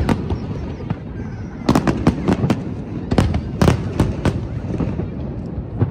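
Aerial fireworks shells bursting in a finale barrage: a string of sharp bangs, thickest from about two to four and a half seconds in, over a continuous low rumble of further explosions.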